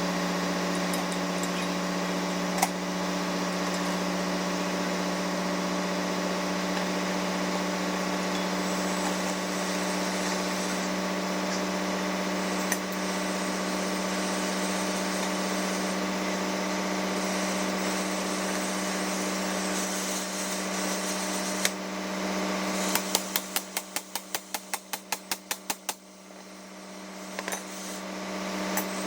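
Steady drone of running engine-room machinery, a constant low hum with a few single clicks. Near the end comes a quick run of about fifteen clicks, roughly five a second, while the drone dips.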